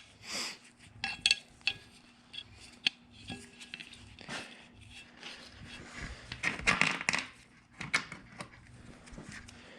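Handling of the sensor's metal bottom plate and 10mm bolts: scattered light metallic clinks and knocks, with a louder flurry of clatter about six to seven seconds in.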